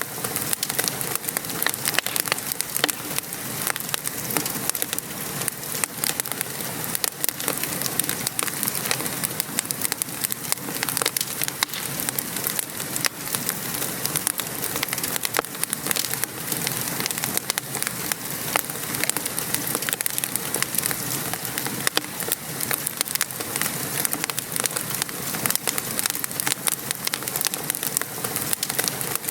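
Steady rain pattering outside mixed with a crackling wood fire, with many small sharp pops and snaps scattered throughout.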